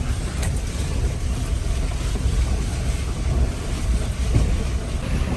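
Jeep Wrangler driving along a rough dirt trail: a steady low rumble of engine and tyres, with wind buffeting the microphone.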